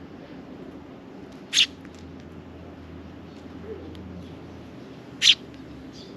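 Sparrow giving two short, sharp chirps, one about a second and a half in and another near the end.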